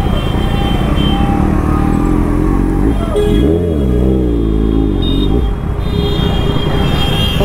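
Kawasaki ZX-6R sport bike's inline-four engine running at low speed in traffic. The engine note swells up and back down in pitch around the middle.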